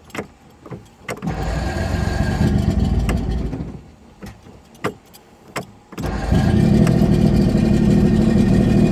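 Boat's 85 hp outboard motor being started after sitting unused for over a year. It catches and runs for about two seconds, then dies. After a couple of sharp clicks, it starts again about six seconds in and keeps running steadily.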